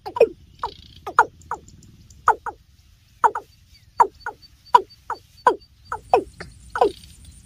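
Watercock (kora) calling: a steady series of short notes that each slide downward in pitch, often in pairs, about two a second.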